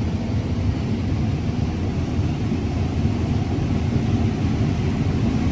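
Combine harvester running steadily while harvesting corn, a constant low machine drone with its grain tank almost full.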